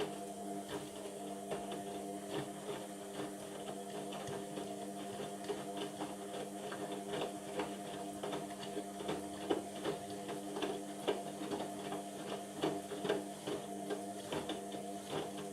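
Indesit washing machine running partway through a cotton cycle: a steady motor hum with frequent irregular clicks and knocks from the drum.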